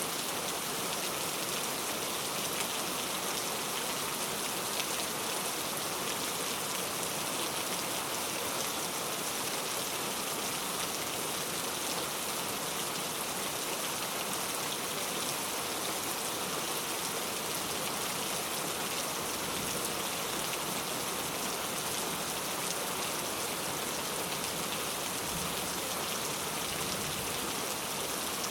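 Heavy rain falling steadily, an even hiss of many drops pattering on surfaces.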